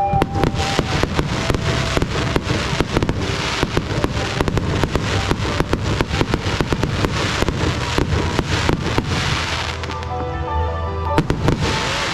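Fireworks display: a rapid barrage of bursts and crackles, several bangs a second, thinning out about ten seconds in, then a short cluster of bursts near the end. Music plays underneath.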